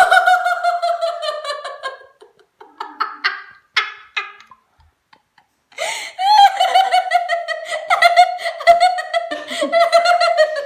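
High-pitched laughter in fits: a laugh right at the start, a few short bursts, a brief pause, then a long fit of laughing from about six seconds in to the end.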